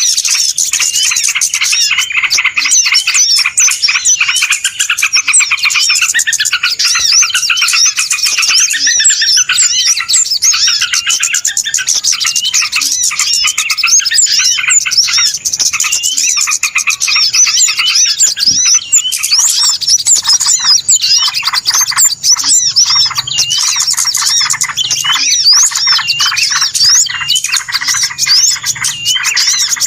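A dense chorus of many small birds chirping and twittering at once, with overlapping quick rising and falling notes that never let up. It is a noisy bird-lure call recording, played to draw wild birds in.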